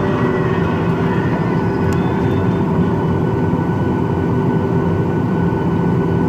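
Steady cabin noise inside a Boeing 737-800 on the ground, engines at idle: a constant rumble with a few steady hum tones.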